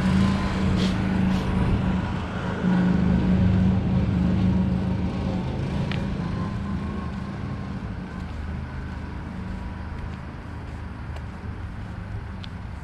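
Motor vehicle engine running close by with a steady low hum, fading gradually as it moves away, over street traffic noise.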